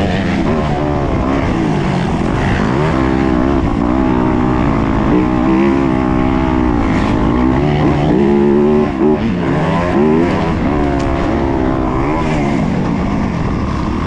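Four-stroke 250 cc single-cylinder motocross bike engine (Yamaha YZ250F) revving hard, its pitch rising and falling over and over as the rider accelerates, shifts and backs off through the track's corners and jumps.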